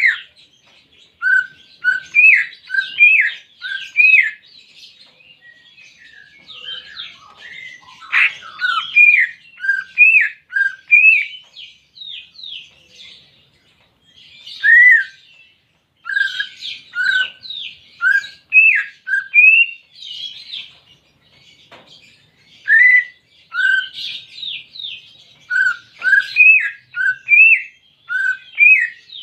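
Cucak ijo (green leafbird) singing: quick phrases of short, sharp whistled notes and chirps, many of them sliding up or down, with a brief pause about a quarter of the way through.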